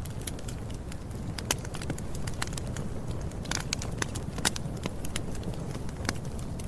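Campfire crackling: irregular sharp pops and snaps, several each second, over a steady low rumble of the burning fire.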